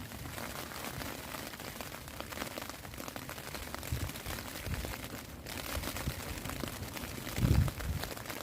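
Steady rain pattering, many fine drops, with a few low thumps, the loudest near the end.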